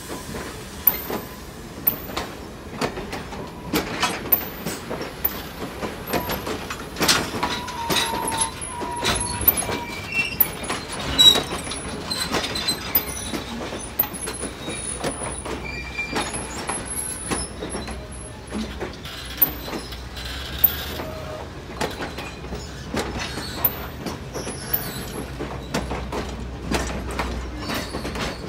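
A train rolling slowly along the rails: irregular clicks and clanks from the wheels and cars, a few brief high squeals, and a low rumble that grows stronger in the second half.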